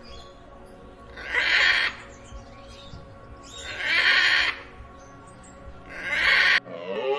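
A horse calling three times, short harsh bursts about two and a half seconds apart, over steady background music. Near the end it cuts to a different animal's call, a pitched cry that bends up and down.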